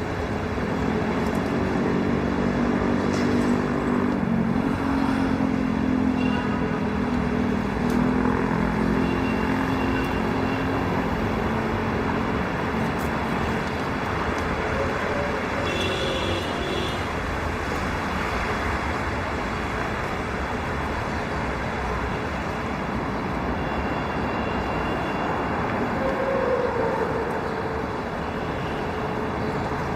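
Steady road traffic noise from passing cars, with low held tones through roughly the first twelve seconds.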